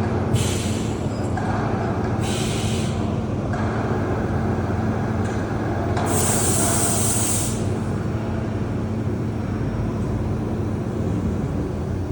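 VMC1160 vertical machining center running a cutting test: a steady machine noise with a low hum throughout. Three bursts of high hiss break in: briefly about a second in, again near two to three seconds, and longest and loudest around six to seven seconds.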